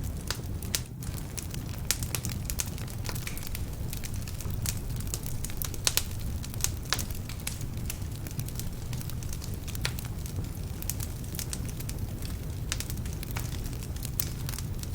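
Wood fire burning in a fireplace: frequent sharp crackles and pops at irregular intervals over a steady low rumble, the crackling from logs that are a bit damp.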